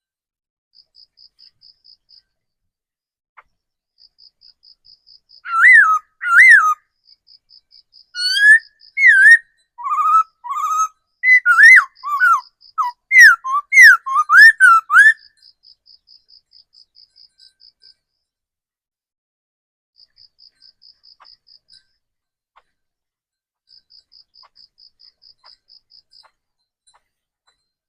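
Laughingthrush singing a loud run of varied, sweeping whistled notes for about ten seconds, starting about five seconds in. A faint, high, rapid ticking trill repeats in short bursts throughout.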